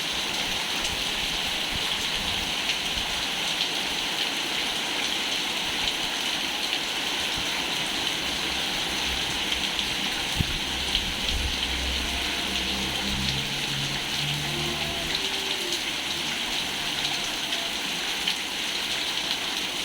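Steady rain falling onto a koi pond, an even hiss of drops with scattered small ticks of individual drops on the water.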